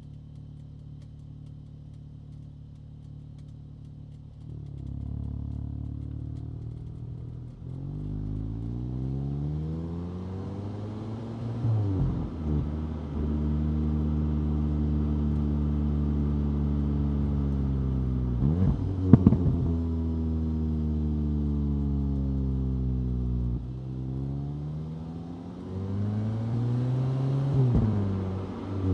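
2025 VW Golf GTI 8.5's 2.0-litre turbocharged four-cylinder engine, steady at first, then pulling away and rising in pitch, dropping back at each upshift of its DSG gearbox, with stretches of steady cruising in between. A sharp knock about nineteen seconds in is the loudest moment, and there are smaller knocks at two of the shifts.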